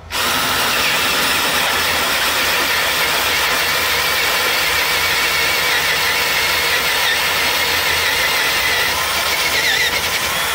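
A machine running steadily with a loud rushing noise and a faint wavering whine, starting and stopping abruptly.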